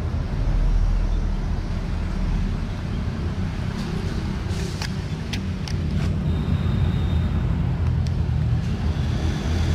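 A steady low rumble of background noise, with a few sharp clicks a little past the middle and a faint brief high tone soon after.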